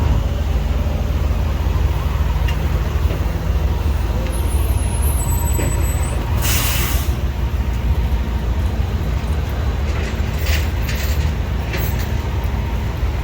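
Heavy vehicle engine running with a steady low rumble, and a short hiss of air about six and a half seconds in, typical of an air brake releasing.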